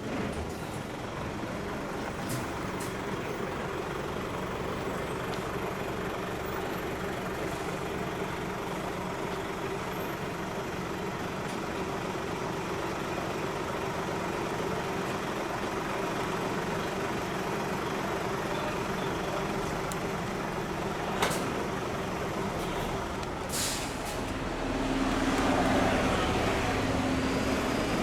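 Large truck's diesel engine running steadily, with a sharp click about three-quarters of the way through and a short hiss soon after; near the end the engine grows louder as it picks up.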